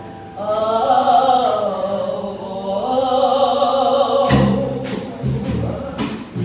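Live song with band: a singer holds a long wavering sung line over light accompaniment, then about four seconds in the band comes in with drum hits and bass notes.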